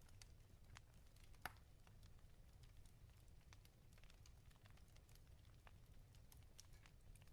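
Wood fire crackling in a fireplace: faint, irregular small pops and snaps over a low steady rumble, with one sharper pop about a second and a half in.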